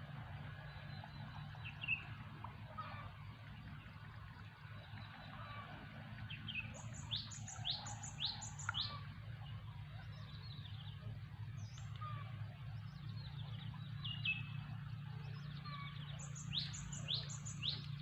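Wild birds chirping. One bird sings a phrase of four quick, sharp notes about seven seconds in and repeats it near the end, over a steady low hum.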